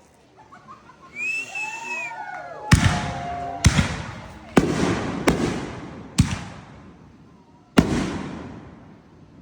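Fireworks shells bursting: six sharp bangs over about five seconds, each fading away after it.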